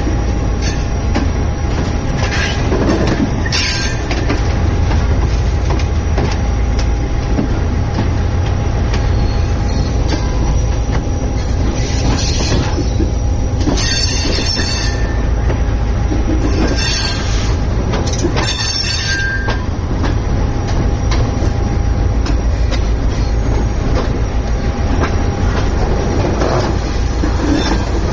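Passenger train's coaches running along the track: a loud, steady low rumble of wheels on rails, broken several times by short, high-pitched wheel squeals.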